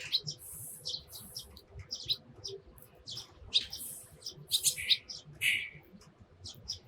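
Eurasian tree sparrows chirping: many short, sharp chirps in quick, irregular runs.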